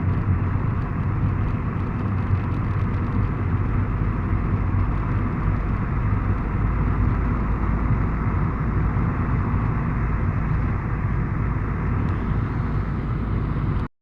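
Steady rumbling noise of a vehicle on the move, engine and road noise together, which cuts off suddenly near the end.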